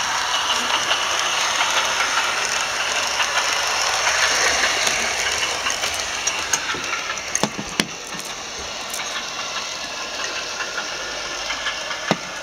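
Model railway sound decoder playing a British Rail class 108 diesel multiple unit's engine and running sounds through the model's small speaker, mixed with the rattle of the model running on track. A few sharp clicks come about halfway through and again near the end.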